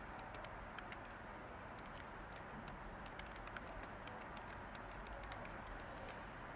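Light typing on a computer keyboard: soft, irregular key clicks over a steady background hiss.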